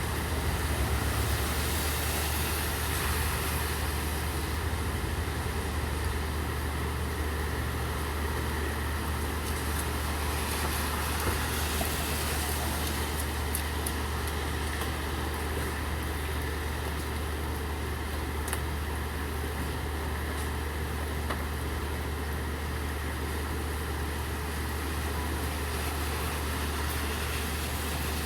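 Steady rain with the low, even hum of an idling vehicle engine underneath, and a few faint ticks.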